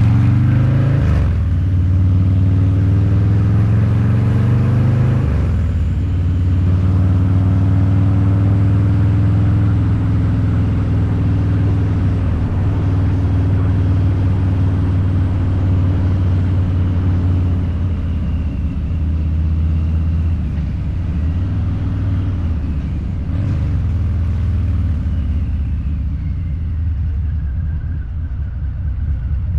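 Harley-Davidson Low Rider's 129 cubic inch V-twin through a Two Brothers Racing exhaust, pulling hard through the gears while riding. The pitch climbs and drops twice in the first five seconds as it shifts up, then it cruises steadily, easing off slightly near the end.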